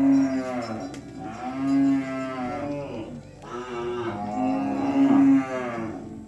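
Cattle mooing: two long, drawn-out moos, the first about three seconds and the second about two and a half, each swelling twice.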